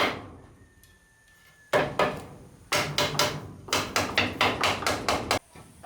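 Hammer striking wood in quick, even blows, about three to four a second. One blow, a pause of over a second, then a long run of blows that cuts off abruptly near the end.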